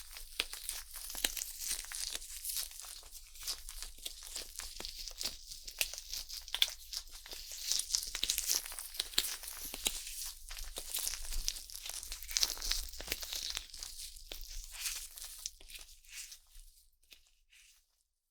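Stainless steel ear pick scraping and tapping quickly over the silicone ear of a binaural microphone: close, dense scratching and crackling that thins out and stops about two seconds before the end.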